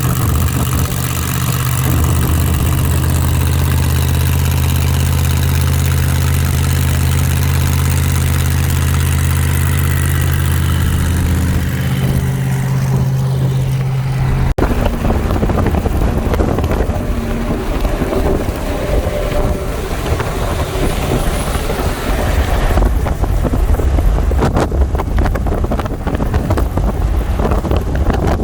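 Car engine idling steadily. After a sudden cut about halfway through, a vehicle driving with wind rumbling on the microphone.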